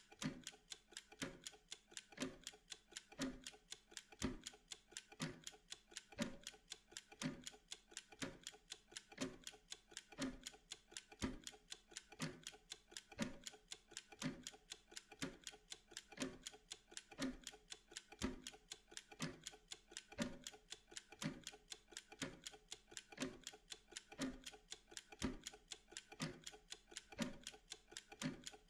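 Timer ticking steadily, with a stronger tick about once a second and fainter, lighter ticks between.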